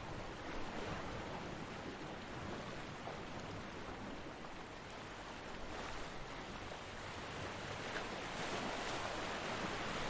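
Ocean waves breaking and washing on a beach, a steady surf hiss that swells and eases, building again near the end.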